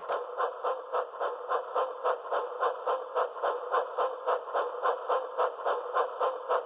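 Rhythmic train chugging, an even clatter of about four beats a second.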